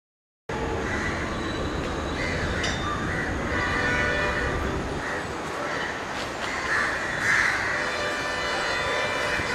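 Train running with a steady rumble, starting abruptly about half a second in, while crows caw several times over it.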